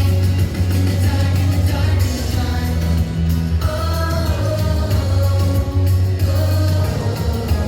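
Children singing a pop song over music with a strong, steady bass line.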